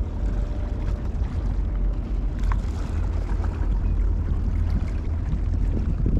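Wind buffeting the microphone: a loud, uneven low rumble throughout.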